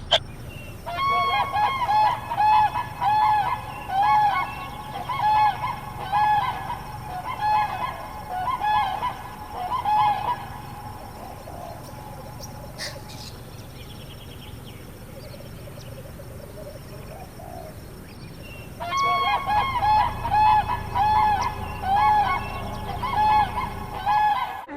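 A bird, likely a goose, calling over and over with short, nasal calls, a little more than one a second. Two runs of calls are separated by a pause of about eight seconds.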